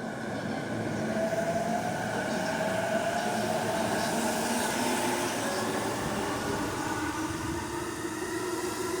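Electric commuter train pulling out of a station, its inverter-driven traction motors whining in tones that rise steadily in pitch as it picks up speed, over the rumble of the cars rolling.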